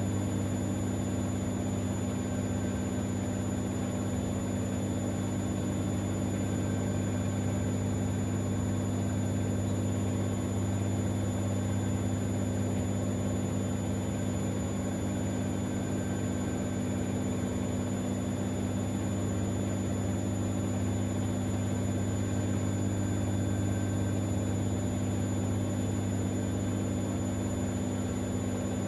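Siemens Extraklasse XLS 140 A front-loading washing machine running with its drum turning at a constant speed: a steady low hum that holds without pauses or changes.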